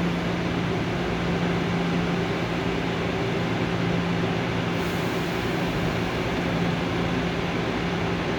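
Seoul Subway Line 3 electric train with unmodified GEC chopper control, running at a steady speed: rumbling noise under a constant low hum.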